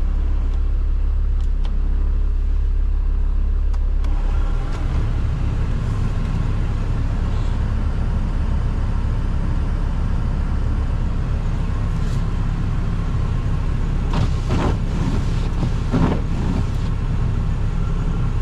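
Ford Transit's five-cylinder 3.2-litre diesel running cold at −7 °C. About four seconds in its steady low drone turns into a rougher, uneven rumble, with a few short bursts of noise near the end.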